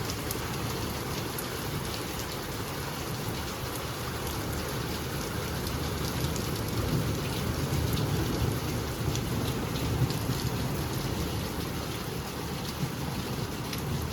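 Steady rain falling, with many small drops ticking over a continuous low rumble.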